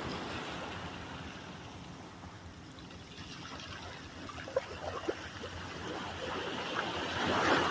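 Ocean surf on a beach: a wave washing in fades to trickling, fizzing backwash with a few small crackles, then another wave swells in near the end.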